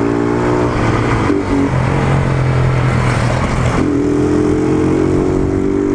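Single-cylinder four-stroke engine of a Honda Fan 150 motorcycle on an open exhaust pipe, running at steady revs. Its note drops away about a second and a half in, then comes back steady about four seconds in as the bike pulls again.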